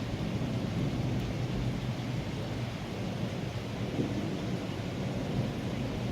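Rain falling during a thunderstorm, with a steady low rumble of thunder and no sharp claps.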